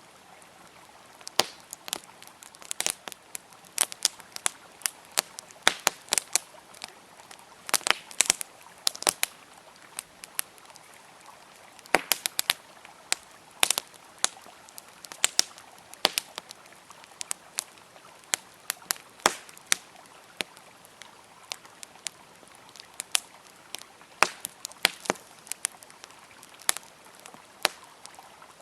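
Wood fire crackling and popping in sharp, irregular snaps, some in quick clusters, over a faint steady rush of flowing water.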